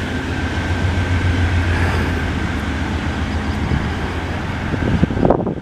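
Canadian Pacific freight train's container well cars rolling across a bridge: a steady rumble of steel wheels on rail, with a low drone that eases a little a couple of seconds in.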